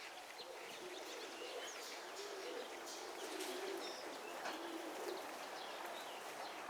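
Domestic pigeons cooing softly, low wavering calls repeated throughout, with faint higher chirps of small birds above them.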